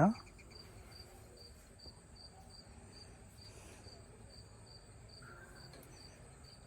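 An insect chirping in a steady, even rhythm, about two and a half short high chirps a second, with a single spoken word right at the start.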